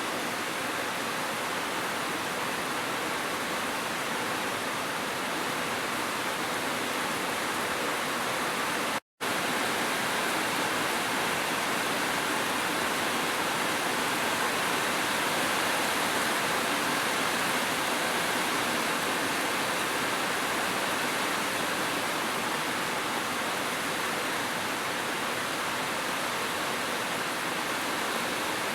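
Waterfall and gentle rain: an even, steady rush of falling water, broken by a split-second dropout to silence about nine seconds in.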